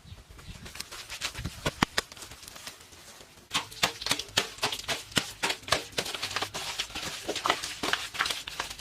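Rapid irregular tapping and knocking, a few scattered knocks at first, then many quick taps a second from about three and a half seconds in.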